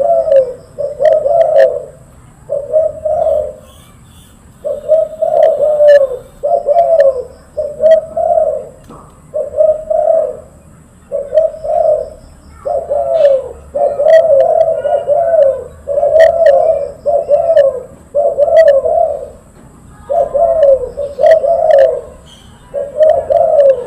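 A silver derkuku (island collared dove) cooing loudly and tirelessly: about fifteen rolling coo phrases, each about a second long, one after another with short pauses.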